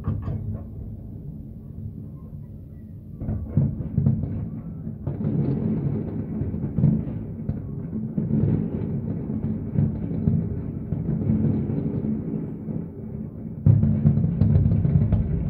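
Fireworks shells bursting in a dense barrage of low booms, thinner for a couple of seconds, then building up about three and five seconds in, with a sudden louder volley near the end.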